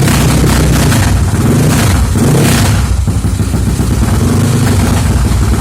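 Yamaha Mio scooter's single-cylinder engine running loud through an open 'kondoman' racing exhaust, revved once about two seconds in and dropping back to a steady run.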